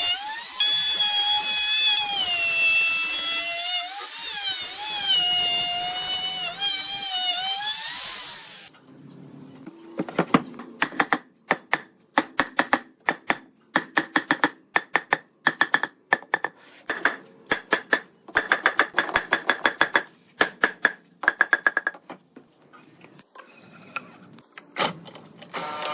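A handheld electric power tool whining under load for about eight seconds, its pitch wavering, then stopping. After that come quick runs of sharp, briefly ringing knocks, many strikes in each run, until near the end.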